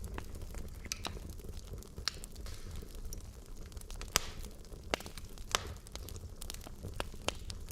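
Wood logs burning in a fireplace, crackling with irregular sharp pops over a low steady rumble of flame; the sharpest pop comes about four seconds in.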